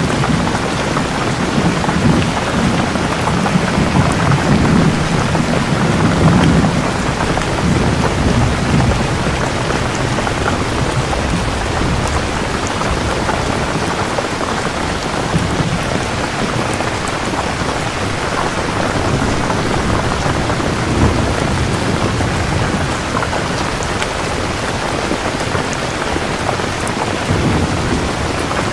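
Steady rain falling, with low rolling thunder rumbling underneath, swelling over the first several seconds and again midway.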